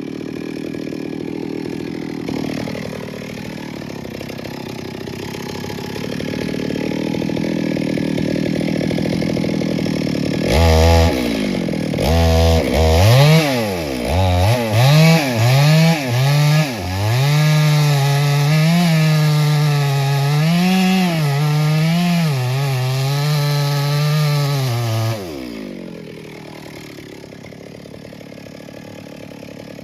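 Chainsaw idling, then blipped up and down several times before being held at full throttle for about eight seconds, its pitch wavering slightly as it cuts into wood. About 25 seconds in it drops back to idle and gets quieter.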